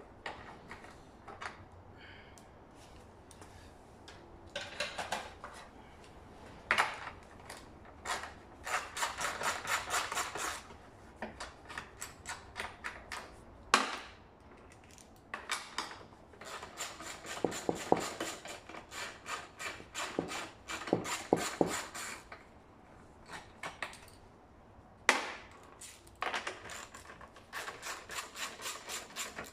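Hand tools undoing the seat fasteners on a scooter: several runs of rapid, evenly spaced clicking, with scraping and a few sharp knocks in between.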